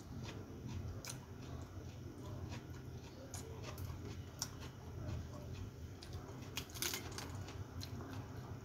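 Close mouth sounds of someone chewing food eaten by hand, with small crisp crunches and clicks scattered throughout and a louder cluster about seven seconds in. A low steady hum runs underneath.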